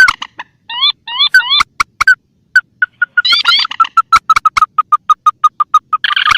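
Recorded rail calls played as a bird lure: short rising notes in quick clusters, then a run of clipped repeated notes that speeds up through the second half.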